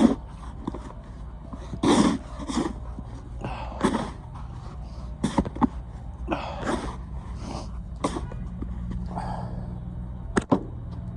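A snow shovel scraping in repeated short strokes, about one every second or two.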